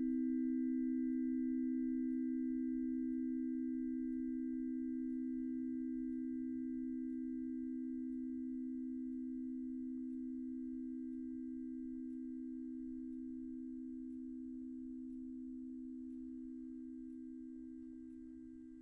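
Two tuning forks ringing together in two low, pure, steady tones with a slight beating between them, fading slowly and dying away near the end.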